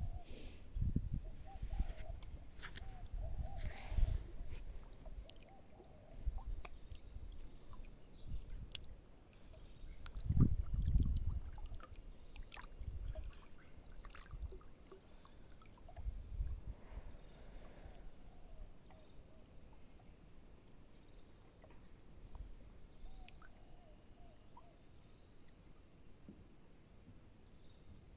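Steady high-pitched drone of insects, with irregular low thumps and rumbles, heaviest in the first few seconds and again about ten seconds in, and a few scattered clicks.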